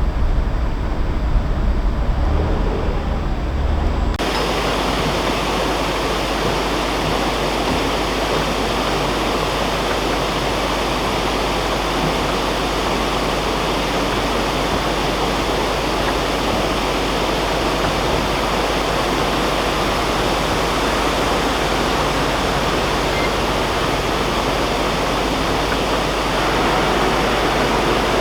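Steady rush of water pouring through a canal lock. For about the first four seconds a deep low rumble dominates, and it cuts off suddenly into the water sound.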